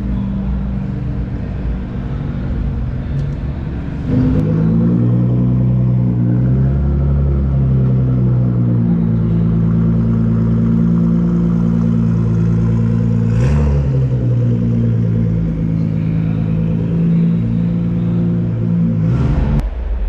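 Car engines running at a steady idle with a deep rumble, echoing in a large hall. The sound steps up about four seconds in and changes abruptly twice more near the middle and the end.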